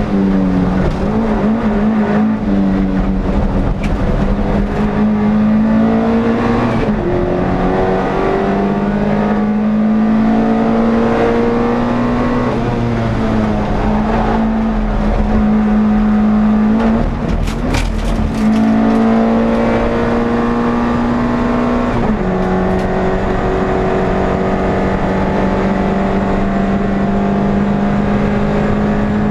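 NSU TT race car's air-cooled four-cylinder engine running hard at high revs, heard on board. Its pitch climbs and then drops back at each gear change, several times. There is a brief dip with a short clatter about two-thirds of the way through.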